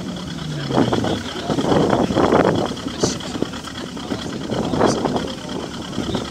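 Car engines revving through loud exhausts in repeated bursts, one engine's pitch falling away at the start, over background voices.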